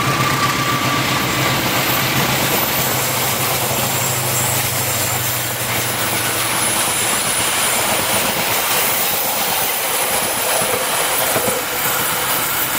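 Passenger train coaches rolling past on curved track: a steady rush of steel wheels on rail with faint high wheel squeal. Under it, the diesel locomotive's low engine hum drops away about halfway through.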